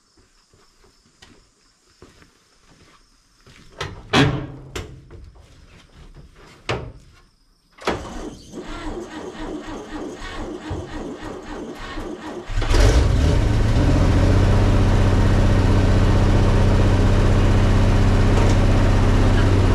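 1961 Chevrolet Viking 60 truck engine on choke, cranked by the starter from about eight seconds in. It catches a little before thirteen seconds and then runs steadily and loudly. A few sharp knocks come about four seconds in.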